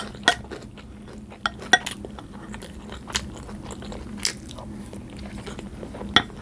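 Close-miked chewing and mouth sounds of a person eating, with irregular sharp clicks.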